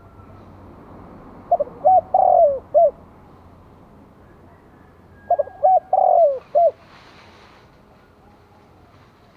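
Spotted dove cooing: two phrases of several notes each, about four seconds apart. It is the decoy male's call, used to draw in and provoke wild doves.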